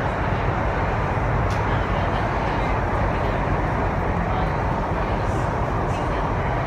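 Cabin noise of an MTR East Rail Line R-Train running at speed: a steady, even rumble of wheels on rails and running gear.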